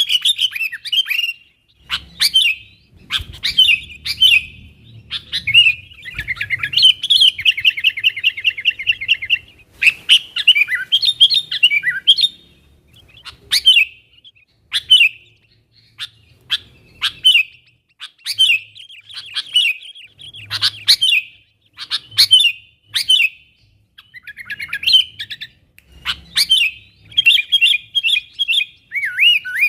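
Sooty-headed bulbul (kutilang) calling busily: short bright chirping phrases in quick succession, with a fast rattling trill about a third of the way through.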